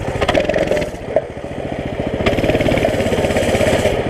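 Coleman CT200 mini bike's small single-cylinder four-stroke engine running, easing off about a second in and then pulling harder and louder from about two seconds in.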